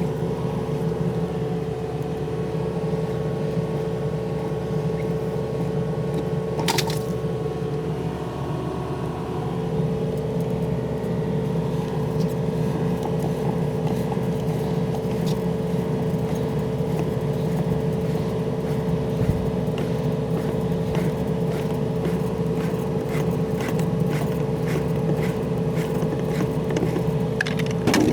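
Yanmar diesel engine running steadily, its pitch sagging briefly about eight seconds in as if under load, with a sharp clank near seven seconds and scattered clicks and knocks through the second half.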